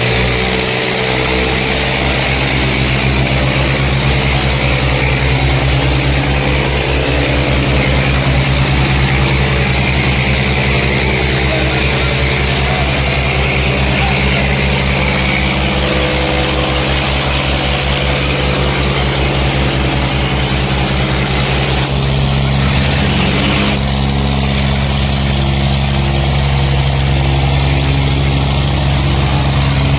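Diesel engine of an Eicher 557 tractor running steadily, a deep pulsing engine note that shifts in pitch and tone a little over two-thirds of the way through.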